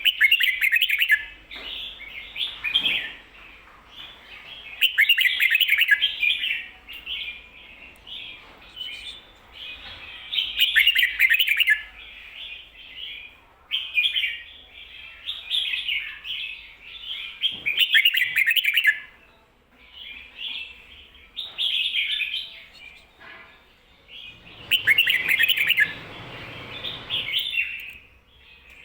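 Red-whiskered bulbul singing: short, quick phrases of clear whistled notes, repeated every few seconds with brief pauses between.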